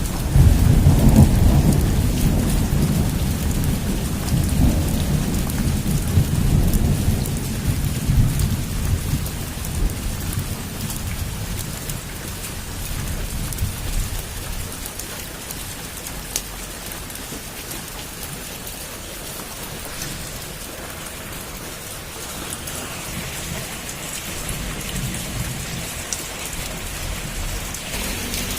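Heavy rain falling on a roof, a steady hiss with scattered drop ticks. A long roll of thunder rumbles loudest about a second in and fades away over the next ten seconds or so.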